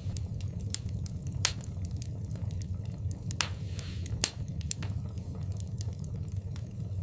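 Wood fire in a fireplace crackling over a steady low rumble, with irregular sharp pops, a few louder ones about a second and a half, three and a half and four and a quarter seconds in.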